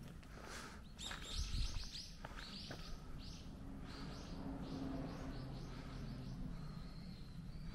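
Birds chirping: a quick run of short, high, falling chirps for the first few seconds, then a longer wavering whistle near the end. Under them runs a steady low hum, with a brief low bump about a second and a half in.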